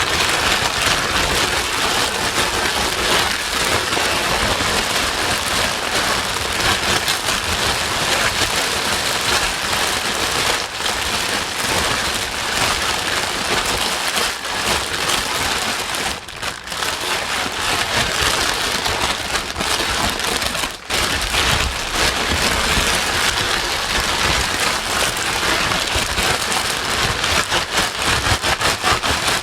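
Steady, dense rain-like hiss of white noise, spread evenly from deep rumble to high hiss, played loud to calm a crying baby and mask its crying. It dips briefly twice, about halfway through and a few seconds later.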